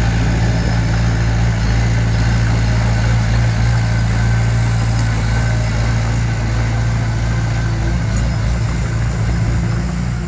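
Diesel engine of a heavy construction machine running steadily at a constant speed, a loud, even low hum.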